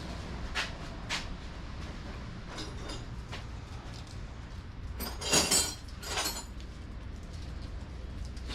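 Metal hand tools clinking and clattering against each other: two light clicks, a few faint clinks, then a louder metallic rattle about five seconds in, over a low steady hum.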